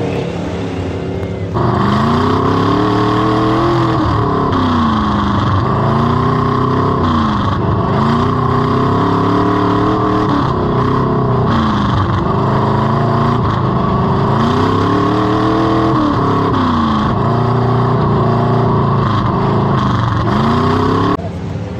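Derby race truck engine revving hard, its pitch climbing and falling back over and over as it accelerates and lets off, about every two to three seconds. The sound jumps louder about two seconds in and drops back just before the end.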